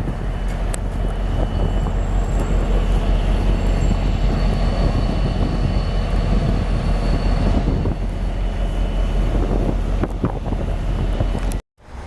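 Fast passenger train passing through a station: a loud, steady rumble of wheels on rail with thin high-pitched whines over it, cutting off abruptly near the end.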